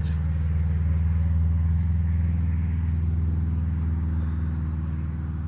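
A low, steady engine-like drone that swells and then slowly fades, louder than anything else around it.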